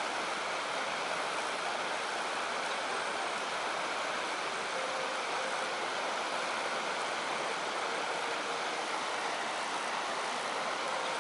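Steady rushing of a mountain stream or river, an even unbroken noise with no other clear sound over it.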